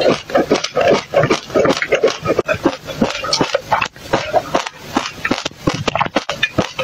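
A person chewing a mouthful of dry mixed seeds close to the microphone: a dense, rapid run of small crunches and mouth noises, with gulps of a drink near the middle.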